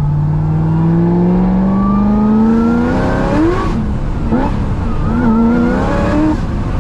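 Supercharged 6.2-litre V8 of a roughly 1000 hp C6 Corvette ZR1 pulling under throttle, its pitch rising steadily. About three seconds in the revs shoot up, then waver up and down: the engine flaring as the rear tyres lose traction.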